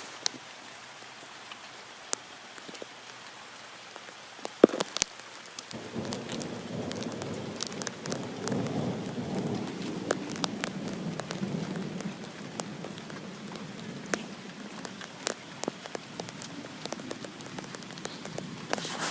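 Heavy rain hissing, with many sharp drop hits close by. About six seconds in, a low rumble rises under it, peaks over the next few seconds, then fades.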